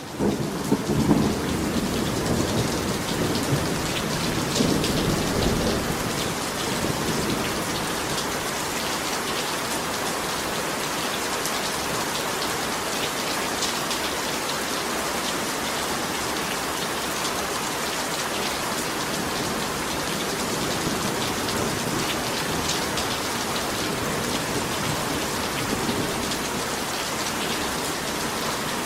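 Heavy rain pouring steadily, with rolling thunder rumbling in the first few seconds.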